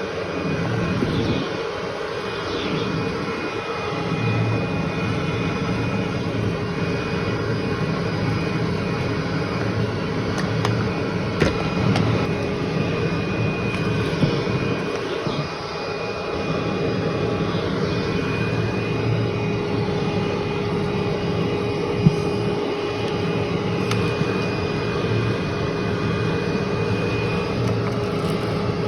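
Vacuum cleaner running steadily with a constant motor whine, with a few sharp clicks as debris is sucked up.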